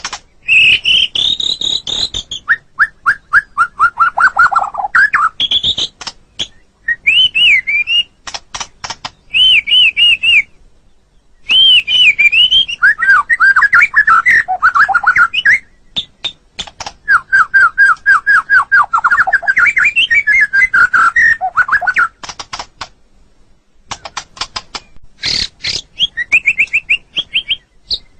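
White-rumped shama (murai batu) singing: loud, clear whistled phrases that slide up and down, mixed with quick runs of repeated falling notes and sharp clicks, broken by short pauses between phrases.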